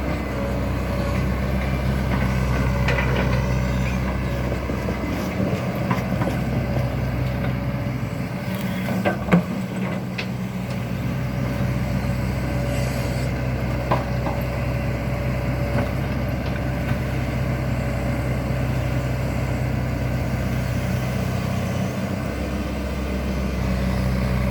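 Excavator diesel engine running steadily, with a sharp knock about nine seconds in and a lighter one around fourteen seconds.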